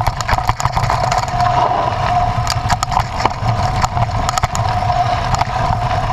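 A motor vehicle driving over rough ground: its engine runs steadily under a low rumble, with frequent knocks and rattles.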